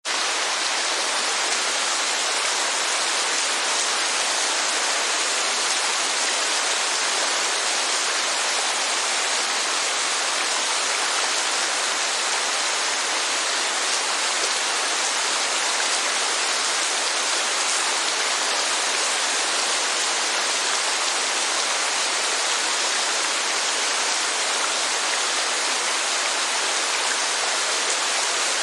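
Steady heavy rain mixed with rushing falling water, an even, unbroken hiss with no music in it; it drops out for an instant at the very start.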